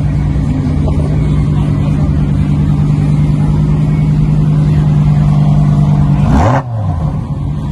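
A car engine held at steady high revs, a strong even drone, then a short crackle with the pitch falling away about six and a half seconds in before the steady note returns.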